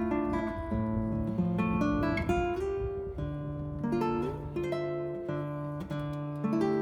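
Background music: acoustic guitar playing a slow melody of plucked notes over a steady low bass note.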